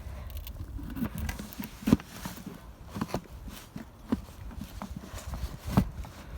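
Irregular knocks and clunks as the parts of a heated chicken waterer are worked together, its pegs being fitted into slots. The loudest knocks come about two seconds in and again near the end.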